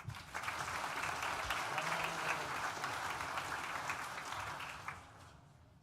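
Audience applauding, starting just after a name is read and dying away about five seconds in.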